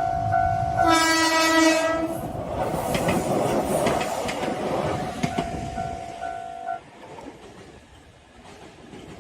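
A Japanese level-crossing alarm dings in a steady beat of about three strikes a second. About a second in, a JR Kyushu 817 series train sounds one horn blast lasting about a second, then rushes through the crossing with wheel and rail noise. The alarm, heard again over the fading train, cuts off about two-thirds of the way through.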